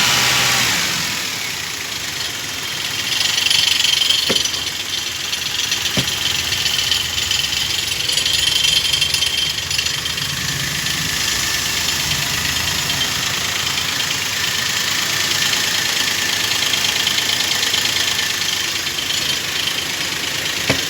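Maruti Alto K10's three-cylinder petrol engine idling, rising briefly in speed a few seconds in, with no whistle from the intake manifold: the air leak has been cured by cleaning and refitting the manifold.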